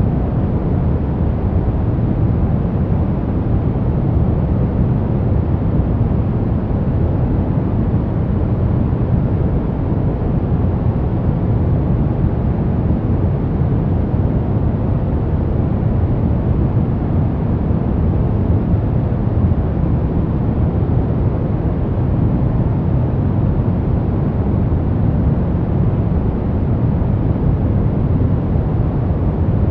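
Sleep white-noise track: a steady, unbroken rushing hiss, deep and rumbling, with most of its weight in the low end and little treble.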